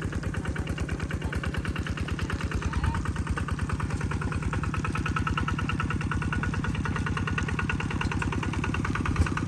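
An engine running steadily at idle with an even, rapid chugging pulse.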